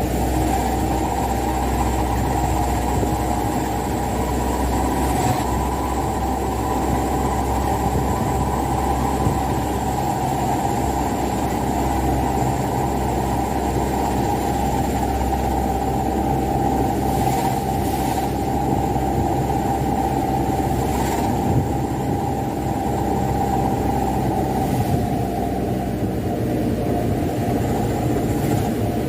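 Mitsubishi Canter dump truck's diesel engine running steadily while hauling a heavy load of wet sand, its note easing slightly lower near the end.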